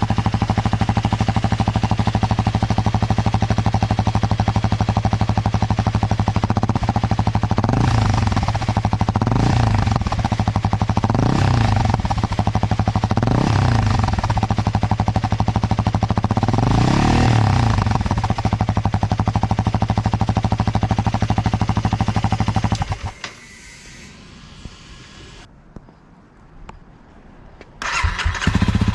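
Honda CRF250L single-cylinder engine idling through an aftermarket exhaust, with the throttle blipped five times, each rev rising and falling back to idle. The engine sound falls away about 23 seconds in and comes back abruptly near the end.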